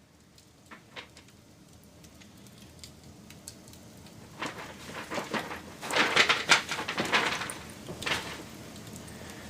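Wood fire crackling: a few scattered pops at first, then a dense run of loud crackles and snaps from about four and a half to eight seconds in, over a low steady background.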